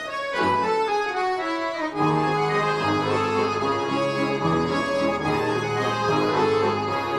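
Bayan (Russian button accordion) orchestra playing a sustained, many-voiced passage. About two seconds in, low bass notes come in under the melody.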